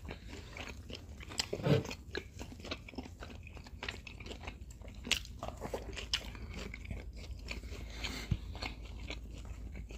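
Two people chewing and biting food close to the microphone, with wet mouth clicks, smacks and light crunches, and one louder thump a little under two seconds in.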